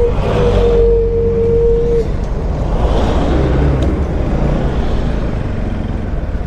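Motorcycle engine running and wind noise on the move, with a single steady tone that cuts off about two seconds in.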